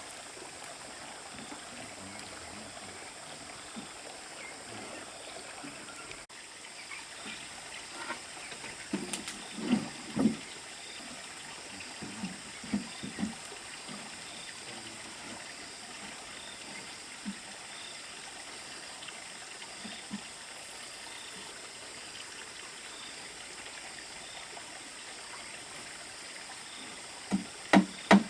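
A steady hiss like a running stream, with scattered knocks and taps that fit wood being handled for the build: a cluster about a third of the way in and a few sharp knocks near the end.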